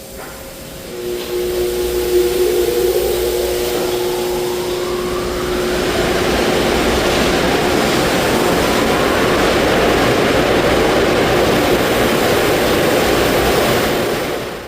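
Car wash air dryer blowers spinning up: a rising whine over the first few seconds, settling into a loud, steady rush of air that cuts off suddenly at the end.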